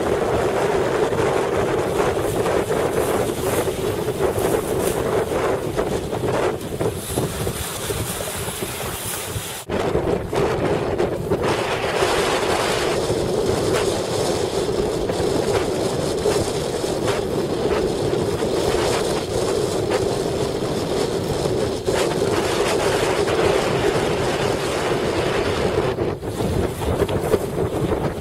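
Strong wind buffeting the microphone over rushing water, with a steady hum underneath. It drops out briefly about ten seconds in, then resumes.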